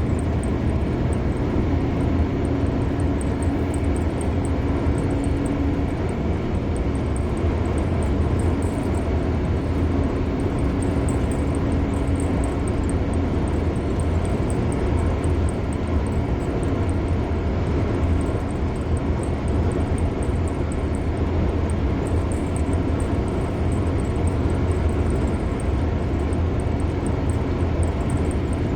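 Steady road noise of a car driving at speed on a highway: a constant low rumble of tyres and engine, with a faint hum that fades in and out.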